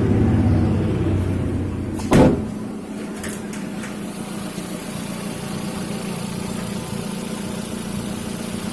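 Hyundai Santro Xing 1.1-litre four-cylinder engine, freshly assembled, running: its revs ease down over the first two seconds, then it idles steadily. A single sharp knock sounds about two seconds in.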